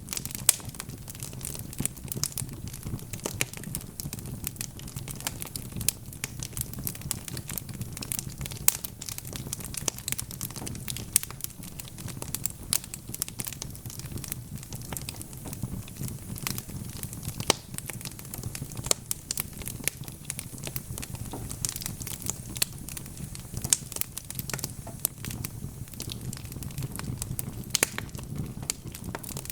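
Wood fire burning in a fireplace: constant irregular crackling and snapping over a low, steady rumble of the flames.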